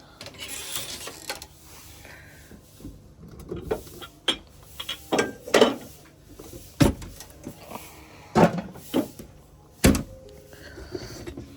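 A string of about eight irregular knocks and clicks, like hard objects being handled and set down, the sharpest ones in the second half.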